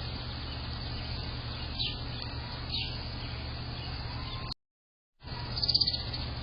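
A wild bird gives a few short, high chirps that glide down in pitch, one at a time, with a louder burst of chirping near the end. Underneath runs a steady low hum and background noise. The sound cuts out completely for under a second just past the middle.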